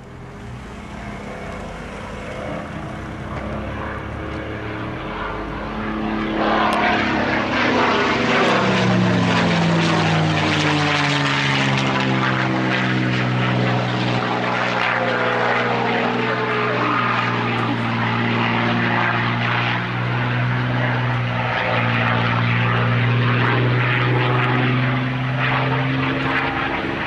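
P-51 Mustang's V12 piston engine and propeller droning in flight, growing louder about six seconds in. Its note slides down over the next several seconds, then holds steady and loud.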